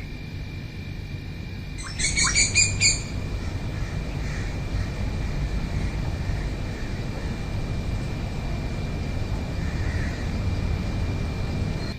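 A bird gives a quick run of loud calls lasting about a second, starting about two seconds in, over a steady low rumble and a thin continuous high tone.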